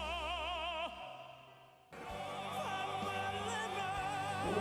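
Male classical-crossover vocal quartet singing opera-style in Italian. A held note with wide vibrato ends about a second in and fades away. After a sudden cut near two seconds, the voices come back in a deep, sustained harmony.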